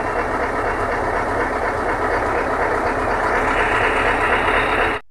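A truck's engine running steadily with road noise while driving. It cuts off suddenly near the end.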